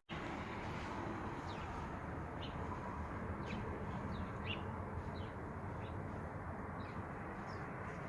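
Small birds chirping: a dozen or so short, high chirps, each falling in pitch, scattered over a steady background noise.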